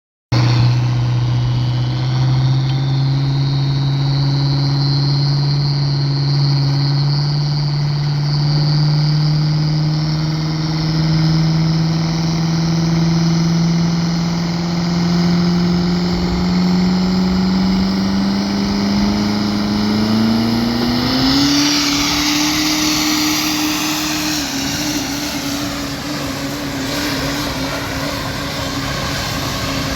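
Duramax V8 turbodiesel of a pull truck with a single S480 turbo, run hard under load. The engine note and a high turbo whine climb slowly and steadily for about twenty seconds. Then the revs step up and level off, with a loud rushing hiss.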